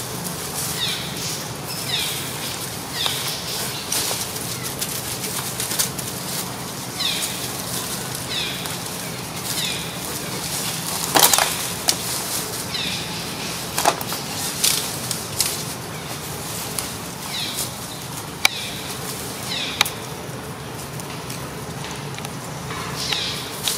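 A bird calling over and over in short, falling chirps, with a few sharp clicks, the loudest about eleven seconds in, and a low steady hum underneath.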